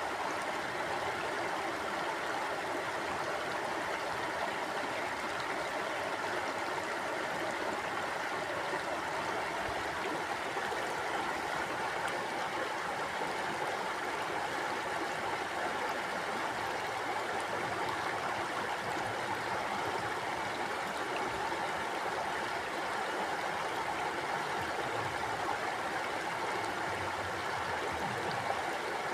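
A stream flowing steadily over rocks, an even rushing and burbling of water that does not change.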